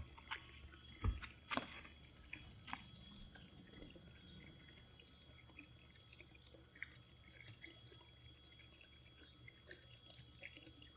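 Faint trickling of water, with a low thump about a second in and a few small clicks.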